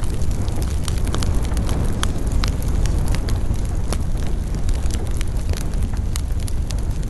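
Campfire burning, with frequent irregular crackles and sharp pops from the burning wood over a steady low rumble.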